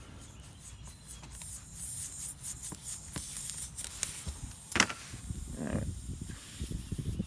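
Hand-tool handling noise at a tire puncture as the screw is pulled and the tire reamer tool goes in: scattered light clicks and rubbing, with one sharp click a little under five seconds in.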